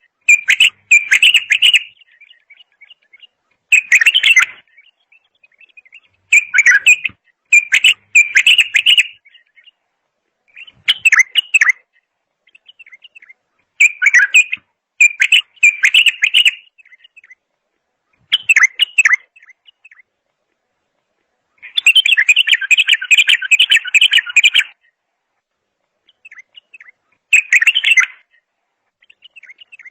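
A songbird singing loudly in short warbled phrases of one to two seconds with pauses between, and one longer, rapid run of about three seconds past the middle.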